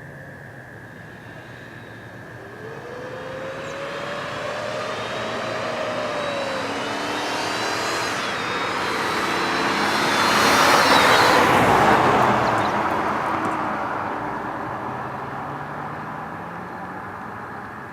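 1998 BMW E39 540i's 4.4-litre V8 on its standard exhaust driving past. The engine note climbs as it approaches, is loudest about eleven seconds in, then fades away as the car recedes.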